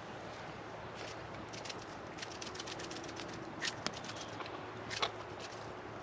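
Campfire of fat wood crackling, with irregular sharp pops over a steady hiss.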